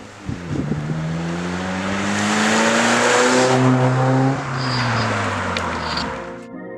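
Front-wheel-drive car's engine accelerating hard, its pitch climbing steadily for about four seconds before easing off, with tire and road noise under it. Music cuts in near the end.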